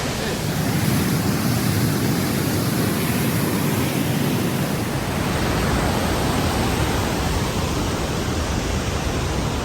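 Rhine Falls pouring down at close range: a steady, deep rushing of falling water.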